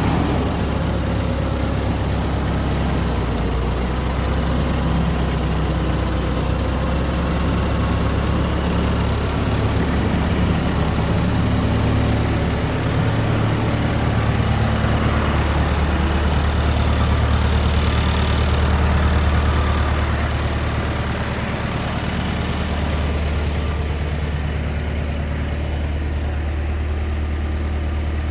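A motor engine idling steadily, a constant low hum that swells slightly about two-thirds of the way through.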